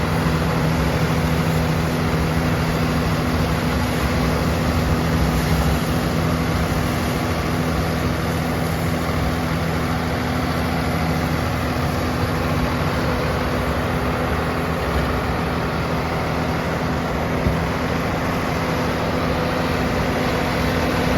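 Swaraj 969 FE tractor's diesel engine running steadily.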